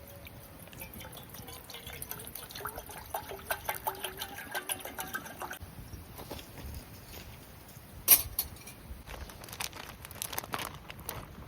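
Liquid being poured into a container for about five and a half seconds, then a single sharp clack about eight seconds in.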